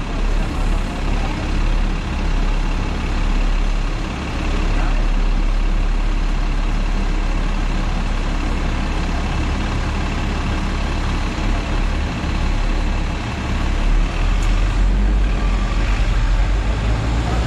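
Hong Kong double-decker tram running, a steady low rumble of the tram in motion mixed with street traffic.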